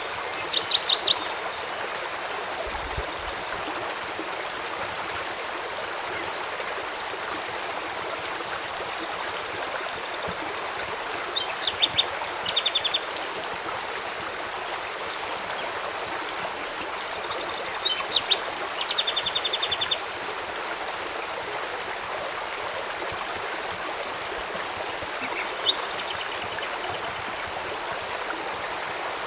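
Steady rush of a flowing river, with birds calling over it: short, rapid chirping trills that come several times, the loudest about a second in and again around the middle.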